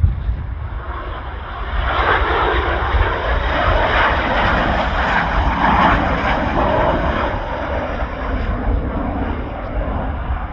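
Jet engine noise of Blue Impulse Kawasaki T-4 jets passing: a roar that swells about two seconds in, holds for several seconds and eases off near the end. Strong wind buffets the microphone with a low rumble throughout.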